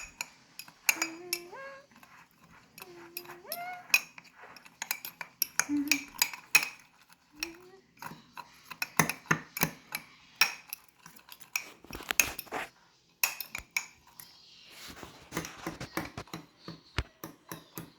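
A fork clinking and scraping against a cup, stirring crushed cookies into milk, in quick irregular taps.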